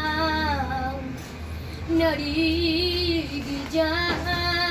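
A high solo voice singing a slow song in long held notes with vibrato, each phrase sliding down at its end, over a steady low hum.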